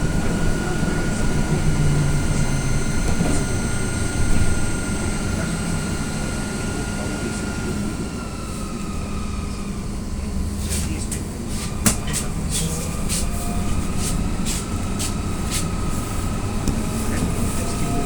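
Inside an AKSM-321 trolleybus under way: steady running noise with the electric whine of the traction drive, which drops in pitch about eight seconds in and climbs again a few seconds later. From about ten seconds in, a scatter of sharp clicks joins it.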